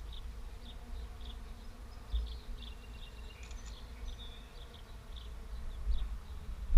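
Wind buffeting the microphone of a bicycle-mounted action camera, a low uneven rumble, with short high chirps repeating about two or three times a second.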